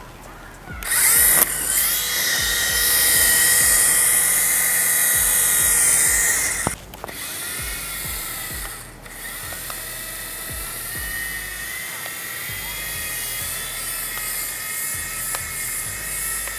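Toy RC helicopter's small electric motor and rotors whining steadily at a high pitch. It is loud with a rushing hiss for the first several seconds, then drops to a quieter, steady whine about seven seconds in.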